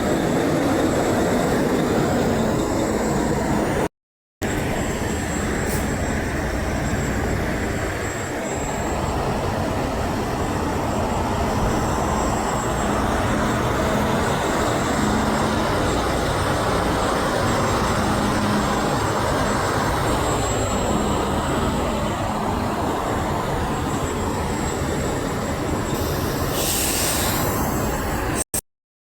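Steady, loud rumble of passing heavy vehicles, with a faint low hum coming and going. It cuts out to silence briefly twice, about four seconds in and near the end.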